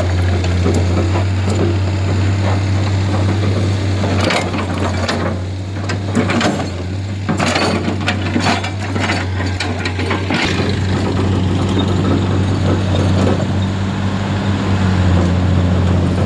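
A vehicle engine running steadily, with a scatter of clattering knocks and rattles in the middle.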